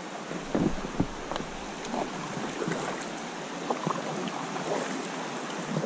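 River water running and splashing around a kayak. A few louder splashes or knocks come about half a second to a second in.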